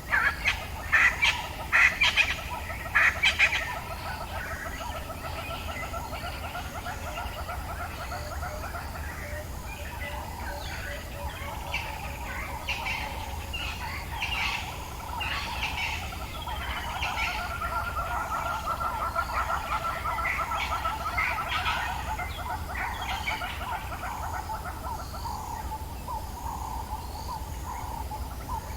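Dawn chorus in the African bush: several birds calling at once. A few loud, sharp calls come in the first four seconds, followed by overlapping rolling trills and chirps that thin out near the end, over a faint steady pulsing of insects.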